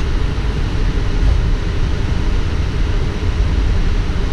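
Steady low rumble with a hiss of air on a Boeing 777 flight deck, the engines running as the aircraft taxis.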